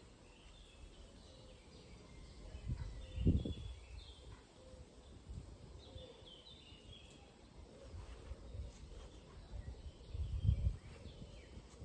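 Small birds chirping in short, high notes scattered throughout, over a faint outdoor background. Two low rumbles on the microphone, about three seconds in and again near the end, are the loudest moments.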